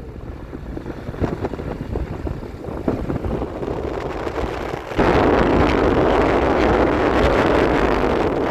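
A motorcycle on the move, with rushing wind on the microphone. About five seconds in, the wind noise suddenly becomes much louder.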